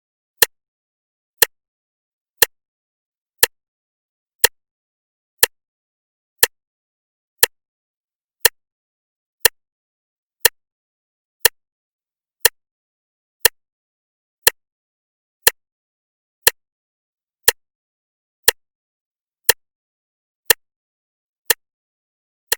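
Clock ticking steadily, one sharp tick each second with silence between ticks.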